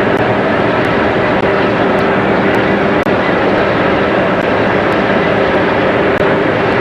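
Boat engine running steadily under way: a loud, even drone with a dense rush of noise over it.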